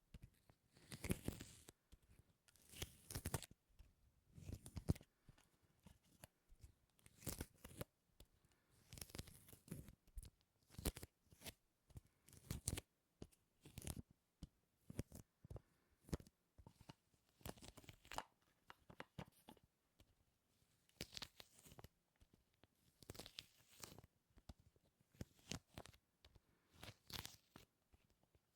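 Sticky surfaces being pressed and peeled apart close to the microphone, giving irregular short crackling, tearing sounds one or two times a second.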